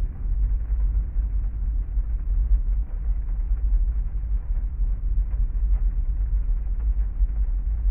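Heavy rain ambience over a strong, steady deep rumble, with a haze of fine patter and no distinct thunderclap.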